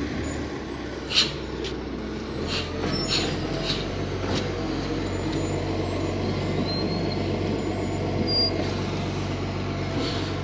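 Garbage truck engine running steadily, with several sharp knocks and clunks in the first few seconds as a wheelie bin is handled.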